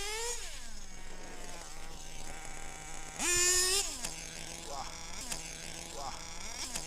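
Small 4.6cc (.28) nitro RC engine, the LRP28, running with a high buzz. It drops from a fast run to a steady idle near the start, is revved sharply and loudly about three seconds in, then settles back to idle with a few short throttle blips near the end.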